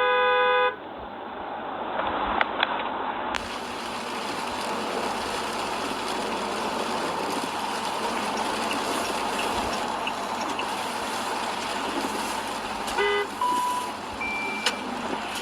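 Road traffic noise from a moving vehicle, with a short car horn toot near the end. A chord of chime-like tones cuts off suddenly in the first second.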